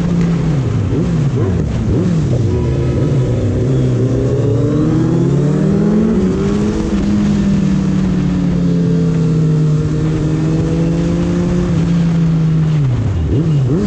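Suzuki Hayabusa's inline-four engine heard from the rider's seat while riding. The engine note dips and rises several times in the first few seconds, climbs, holds steady for several seconds, then drops and picks up again near the end.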